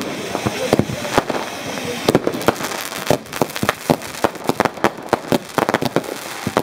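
Fireworks and firecrackers going off all around: a dense, irregular run of sharp bangs and cracks, several a second.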